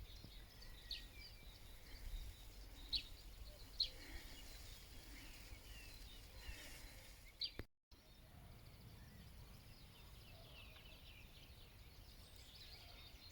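Faint bird calls: a few short, sharp chirps in the first half, then softer, busier twittering after a sudden break partway through.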